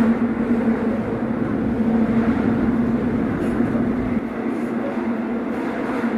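Subway train noise: a steady rumble with a low hum that fades, along with the deepest rumble, about two-thirds of the way through.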